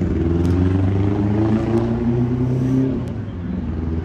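A car engine running, its low note drifting up and down in pitch, then dropping away about three seconds in.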